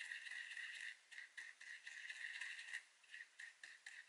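Small paintbrush stirring primer and water in a small container, rattling and clicking quickly against its sides, with short pauses about a second in and near three seconds.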